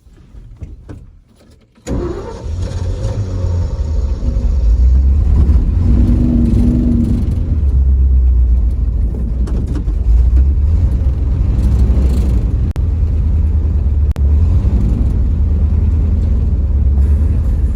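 Engine of a Ford F600 truck comes in suddenly about two seconds in and then runs steadily at a deep, low pitch. A few faint clicks come before it.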